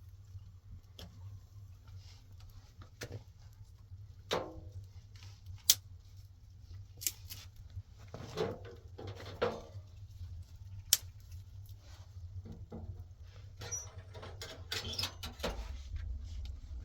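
Scattered small knocks, clicks and rustles of objects being handled, the sharpest knock about six seconds in, over a steady low hum.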